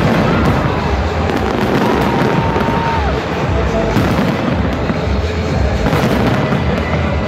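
Big fireworks display going off, a dense run of booming bursts and crackles with hardly a pause, with music playing along.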